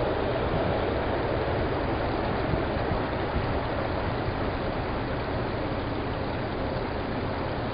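Steady rushing hiss over the low, even hum of an idling car engine.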